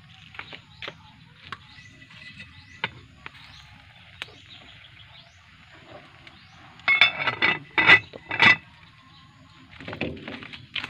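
Small birds chirping now and then, with a short run of louder, sharper sounds about seven seconds in.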